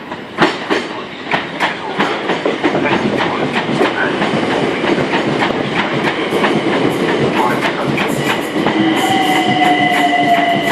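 Train running along the platform over rail joints and points, its wheels clicking rapidly and irregularly. Near the end a steady high squeal comes in, with a whine that slowly falls in pitch as the train slows.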